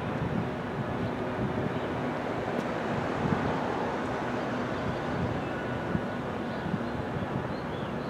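Steady rumble of a distant commuter train approaching the station, mixed with wind buffeting the microphone.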